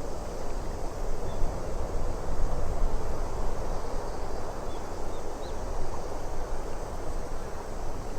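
Steady wind-and-water nature ambience: an even rushing noise, with a few faint short chirps in the middle.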